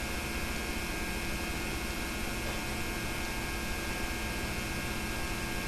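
Steady electrical hum with a layer of hiss and no other events: the background noise of a home tape transfer of silent film, heard in a gap in the narration.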